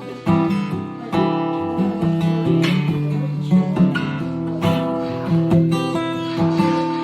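Acoustic guitar strummed and picked, playing a sequence of chords with a new strum about every second.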